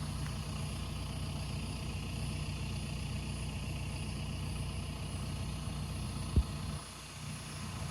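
A vehicle engine idling with a steady low hum. There is a single sharp click about six seconds in, and soon after the hum drops away.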